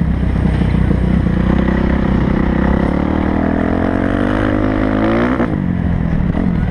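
Kawasaki motocross bike engine under load, its pitch climbing steadily for a couple of seconds, then dropping suddenly about five and a half seconds in and carrying on at a lower pitch.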